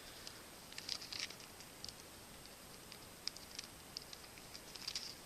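Faint crinkling and small irregular clicks of a small stapled plastic baggie being handled while the staple is worked free.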